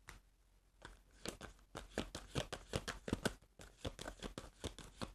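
Tarot cards being shuffled and handled: a quick, irregular run of short paper flicks and snaps, starting about a second in.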